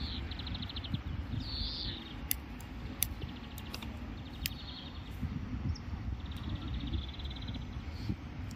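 Small birds chirping in several short, rapid trills high in pitch, with one falling chirp, over a steady low outdoor rumble. A few sharp clicks about two and three seconds in.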